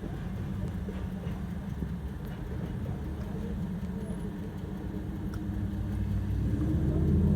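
Steady low engine rumble of heavy vehicles at the railway crossing, growing louder near the end.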